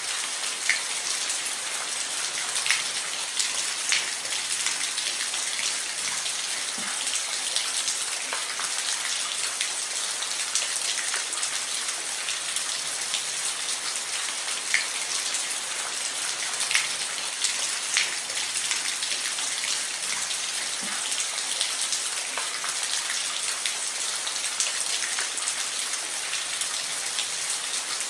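Steady rain falling on a roof: an even hiss with scattered, sharper individual drop hits.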